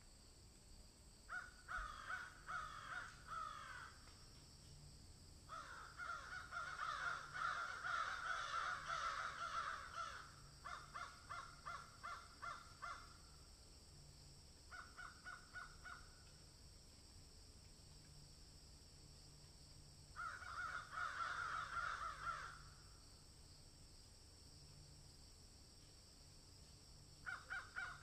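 Birds calling in bouts of fast repeated notes, each bout one to several seconds long with pauses between, over a faint steady high hiss.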